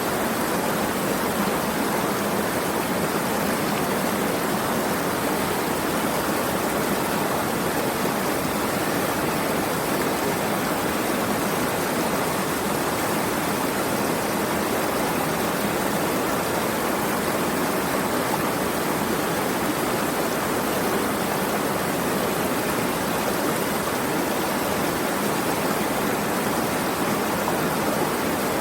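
Flowing water, a steady unbroken rush without change.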